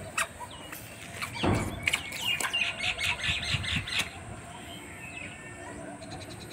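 Birds chattering in a rapid run of high, repeated calls for about two seconds, with scattered single calls around it. A brief loud rush of noise comes just before the chatter.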